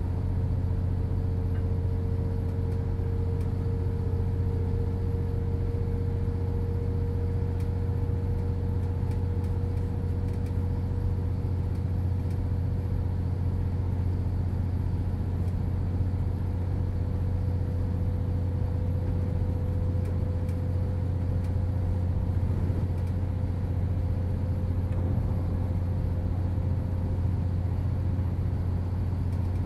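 Interior of a Hitachi Class 805 Evero bi-mode train's motor carriage under way on diesel power. The underfloor engine gives a steady low hum over the running noise, with a faint whine that rises slowly in pitch.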